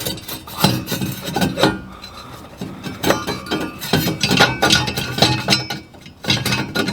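Hand work on metal furnace parts: irregular clicks, knocks and scraping as parts are handled and rubbed together, with a quieter stretch about two seconds in.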